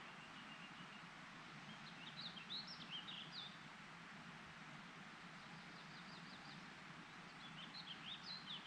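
A small songbird singing two short phrases of quick high chirps, about two seconds in and again near the end, with a fainter run of short notes between them, over a faint steady outdoor hiss.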